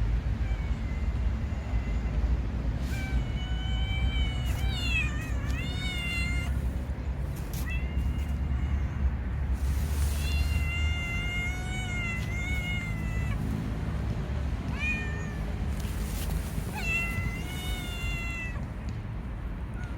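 Street cat meowing repeatedly, about half a dozen long, drawn-out meows, some wavering up and down in pitch, over a steady low rumble.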